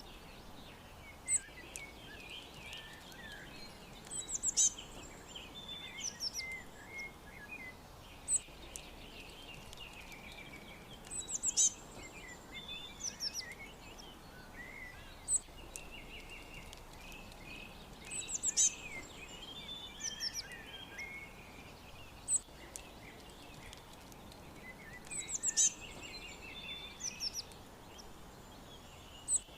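Several wild songbirds chirping and singing together over a faint steady hiss. One bird repeats a short, high song of quick falling notes about every seven seconds, with single sharp high calls between.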